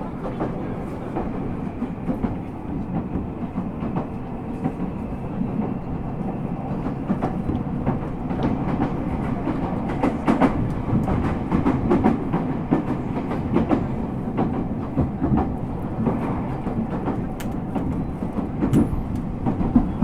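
Ueda Electric Railway 1000 series two-car train with Toyo GTO-VVVF control running, heard from inside the car: a steady rumble of wheels and motors. Wheels click over rail joints, more often in the second half.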